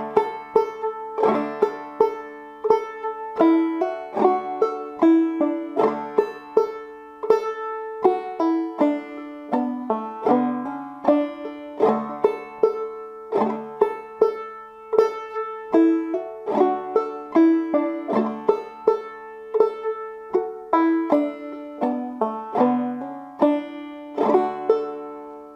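Solo five-string banjo played clawhammer style: a steady, rhythmic old-time fiddle tune of brisk plucked notes over a ringing open-string drone, with hammer-ons, pull-offs and slides.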